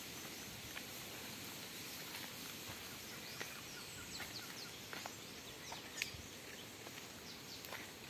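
Faint outdoor ambience of dry scrub forest: birds give scattered short chirps that sweep downward in pitch, with a few soft footfalls on a dirt trail strewn with dry leaves.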